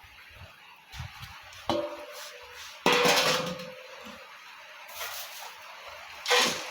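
Hard objects clanking as they are handled, with a brief ringing after the knocks. There are three knocks: a light one near the start, the loudest about three seconds in, and another near the end.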